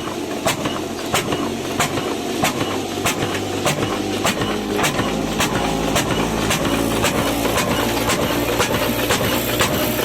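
Old 18 hp stationary diesel engine running at slow speed, with a steady beat of about three firing strokes every two seconds.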